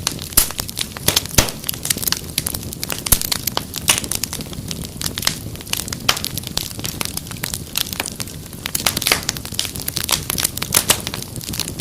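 Wood fire crackling: irregular sharp snaps and pops over a soft steady hiss, with a few louder pops, one about a second and a half in.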